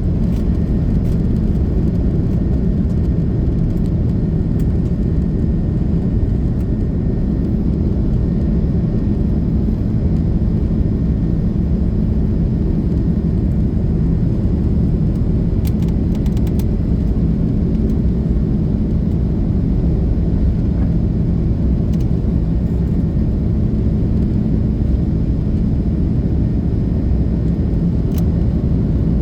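Steady low rumble of an Airbus A330-300's engines (GE CF6-80E1 turbofans) and airflow, heard inside the passenger cabin, with a few faint even tones under the rumble.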